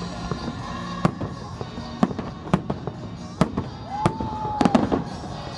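Aerial fireworks shells bursting overhead: about seven sharp bangs, roughly one a second, with a quick cluster near the end.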